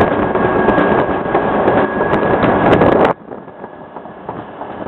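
Bernina Express train running on the rails: a loud rumble with scattered clicks and a steady high whine. About three seconds in it drops abruptly to a much quieter rumble.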